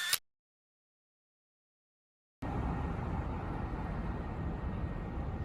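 A loud, brief click right at the start, then the sound cuts out to dead silence for about two seconds, where the recording has been cut or paused. From about two and a half seconds in, a steady low background rumble of an outdoor town street.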